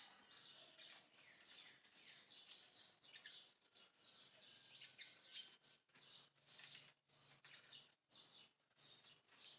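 Faint, high-pitched animal chirps and squeaks, many short calls in quick succession with brief pauses between runs.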